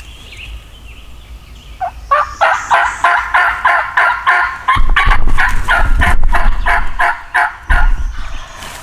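Wild turkey calling: a long run of loud, short, evenly spaced notes, about three a second, starting about two seconds in. A low rumble sits under the second half of the run.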